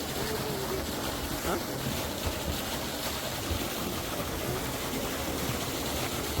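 Steady rush of flowing water, with faint distant voices in the first couple of seconds.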